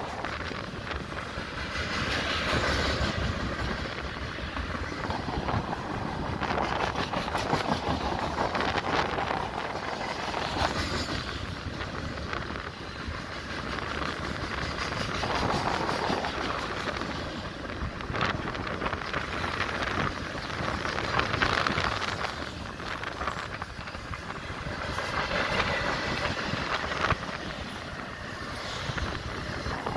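Freight cars rolling past at speed: steel wheels running and clacking over the rails, the noise rising and falling in waves as the cars go by.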